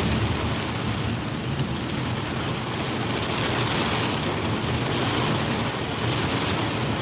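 Heavy monsoon rain pouring on a moving car as it drives through flood water, a steady unbroken wash of noise.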